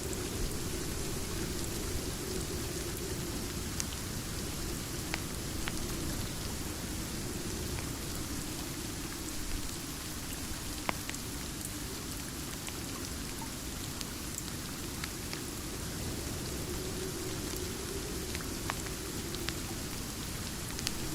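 Steady rain ambience with a low rumble underneath, and sparse sharp ticks scattered through, like the crackle of a wood fire.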